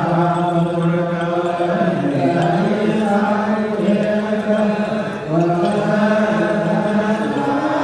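Voices chanting a slow hymn in the Eritrean/Ethiopian Orthodox Tewahedo style, with long held notes that step up and down in pitch every second or two.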